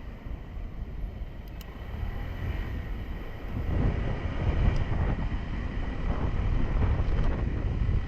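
Honda 125 cc motorcycle riding, its engine and low wind rumble picked up on the GoPro's microphone, growing louder about halfway through.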